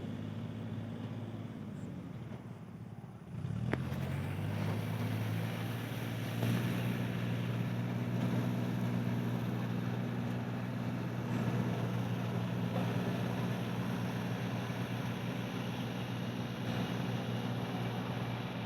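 An engine running steadily, quieter at first and louder from about three and a half seconds in, with a brief click as it picks up.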